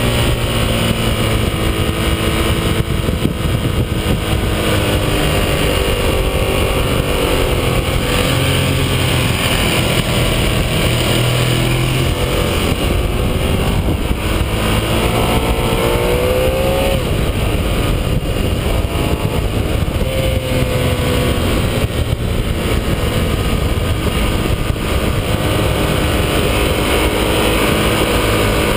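Ducati 1198S's 1198 cc L-twin engine under hard riding at track speed, heard from an onboard camera, its pitch rising and falling with throttle and gear changes, over a heavy rush of noise.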